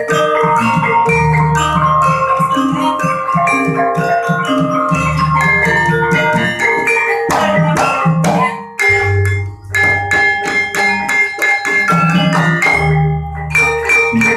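Gamelan-style music: quick runs of struck metal mallet notes over a low drum pulse. The music thins briefly about nine seconds in, then resumes fully.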